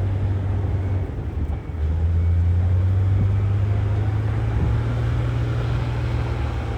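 Heavy diesel engine of earthmoving machinery running, dropping briefly about a second in and then pulling harder and louder from about two seconds in.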